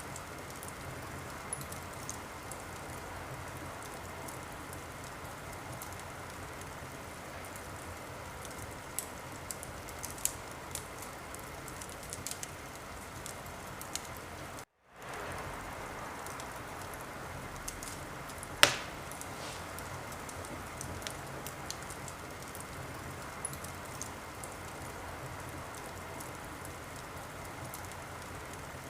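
Wood fire crackling in a fireplace: a steady hiss scattered with small crackles and one loud sharp pop about two-thirds of the way through. The sound drops out completely for a moment about halfway.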